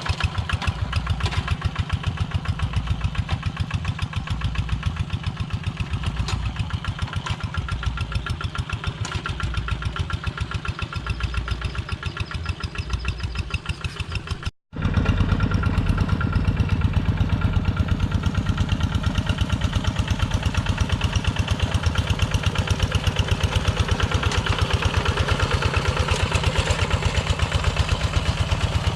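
Single-cylinder diesel engine of a Kubota Quick G1000 two-wheel hand tractor running with a fast, even thudding beat. About halfway through, the sound cuts out for an instant and then continues louder.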